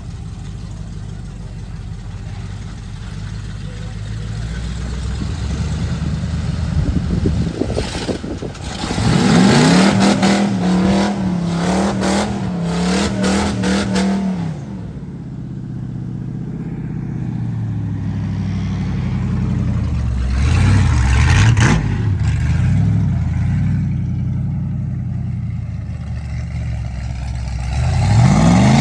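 Old Ford mud truck's engine running, then revving up hard about nine seconds in and holding high revs for several seconds with a wavering pitch and a string of knocks and rattles, before dropping back. It revs up briefly again later and starts climbing once more at the end.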